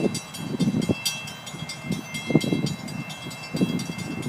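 Grade-crossing signal bell ringing in steady repeated strokes, a few a second, showing the crossing is activated for an approaching train. A louder low rumble from the approaching train runs beneath it.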